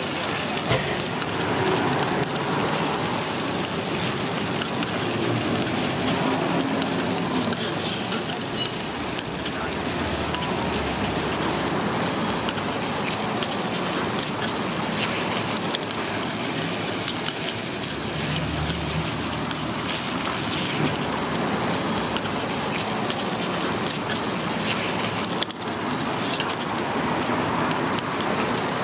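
Takoyaki batter sizzling and crackling steadily in a hot takoyaki griddle as the octopus balls fry.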